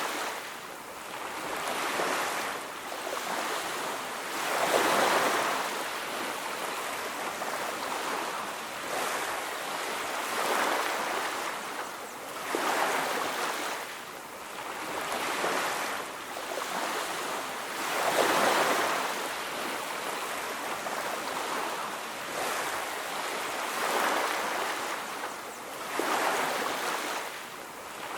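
Ocean waves breaking and washing onto a beach, a steady rushing that swells and fades every few seconds, with the largest surges about five seconds in and again just past the middle.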